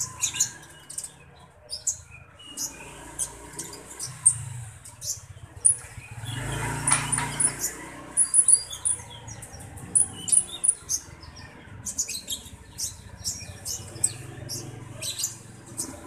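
A small caged konin ijoan bird giving many short, sharp high chirps in quick runs as it is fed by hand, with a louder burst of noise about seven seconds in.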